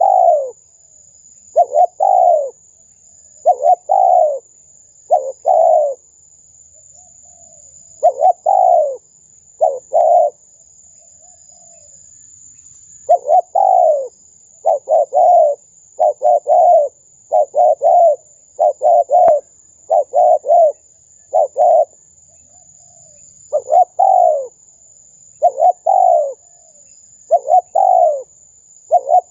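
Spotted dove cooing over and over: short notes, each falling in pitch, in quick runs of two to five with brief pauses between. A steady high-pitched whine sits underneath throughout.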